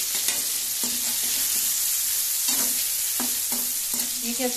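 Pieces of gram-flour gatte sizzling as they fry in hot oil, with a spoon stirring them and knocking against the pan a few times.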